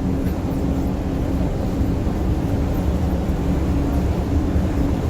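Steady drone of a moving tour coach heard from inside the cabin: engine hum holding an even pitch over a constant low road rumble.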